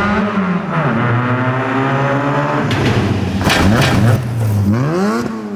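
Off-road rally car's engine revving hard: the pitch drops early and holds, then climbs again near the end. A brief harsh noise cuts through around the middle.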